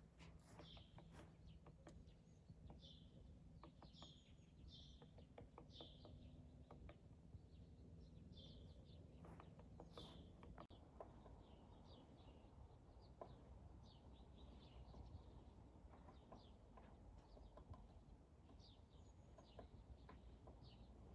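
Faint, short, high chirps from a small bird, repeated about once a second, over a low steady background hum.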